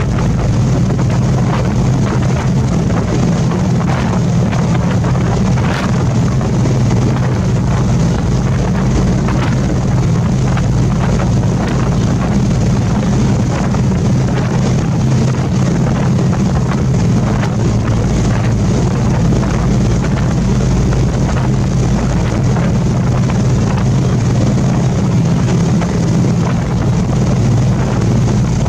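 Sightseeing boat's engine running steadily under way, a constant low drone with wind buffeting the microphone.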